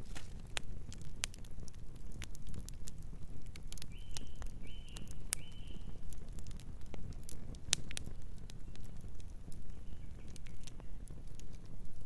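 Wood fire burning with a steady low rumble and frequent sharp crackles and pops. A bird chirps three times in quick succession about four to five seconds in.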